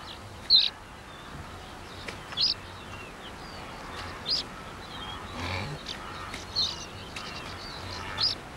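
A bird giving short, high calls about every two seconds, five in all, with fainter chirps between them over a steady background hiss.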